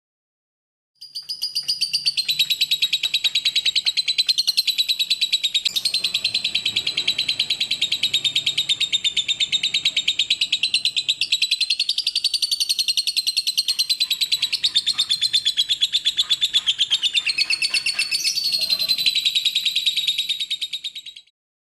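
Lovebird singing in one long unbroken run of fast, high chirps, starting abruptly about a second in and cutting off just before the end.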